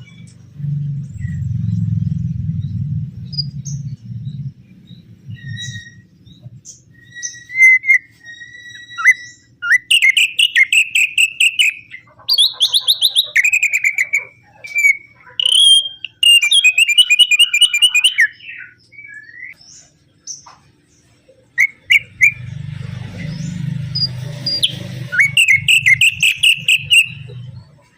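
Opior songbird singing in repeated bursts of fast chirping trills and short whistled notes. A low hum underlies the first few seconds and returns near the end.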